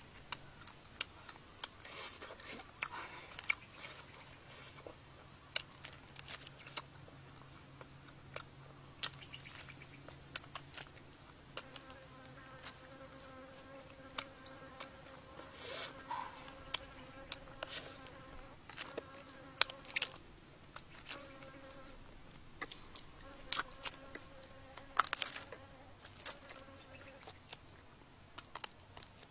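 Biting and chewing grilled snake meat: scattered sharp clicks and a few louder crunches, over an insect buzzing steadily, its buzz turning higher-pitched about halfway through.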